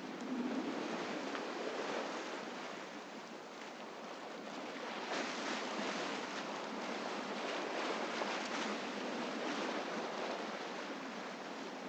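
Sea waves and rushing water with some wind: a steady hiss that swells louder about five seconds in and holds for a few seconds.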